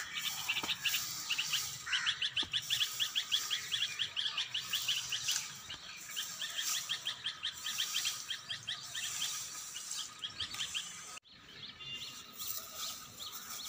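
Small birds chirping in quick runs of short, high notes, with a brief break about eleven seconds in.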